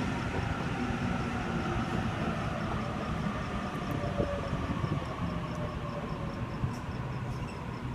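Waratah A-set electric train running on the rails, a steady rumble with a faint whine that drifts gently down in pitch. The sound fades slowly throughout.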